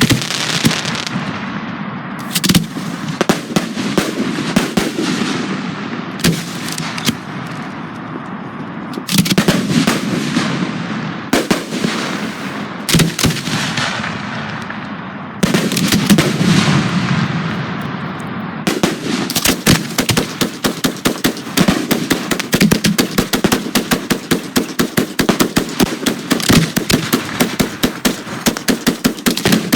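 Fireworks display: a handful of loud shell bursts, each trailing off in a crackle that fades over a few seconds. About two-thirds of the way in, a rapid, continuous string of sharp reports starts, many per second.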